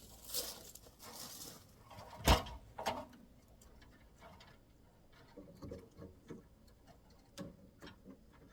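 A latex bungee cargo net being thrown over a load in a pickup truck bed and pulled into place: rustling, a sharp knock about two seconds in and another just after, then scattered light taps and clicks.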